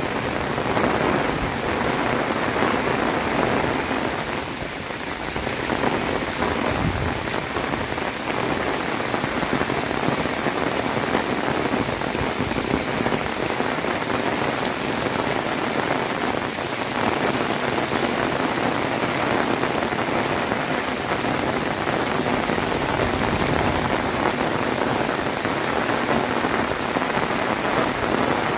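Heavy rain pouring down steadily: a dense, even downpour.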